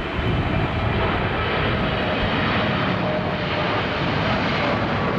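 Jet engines of a Boeing 777-300ER landing, a steady jet noise with faint wavering whine tones, and gusts of strong wind buffeting the microphone.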